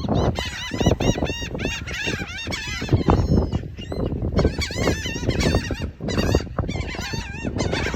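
A flock of gulls swarming for food, many short rising-and-falling cries overlapping without a break.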